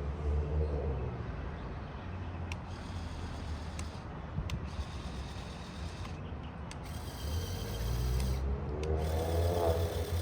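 Two electric motors whining through a plastic LEGO Technic gear train as an RC-converted 42143 Ferrari Daytona SP3 drives. The gears and mechanism rattle and rasp. The whine swells and its pitch rises and falls at the start and again for the last few seconds, with a few sharp clicks in between.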